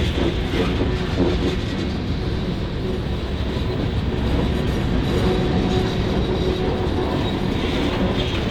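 Norfolk Southern freight train rolling past at steady speed: a continuous, loud rumble of wheels on the rails.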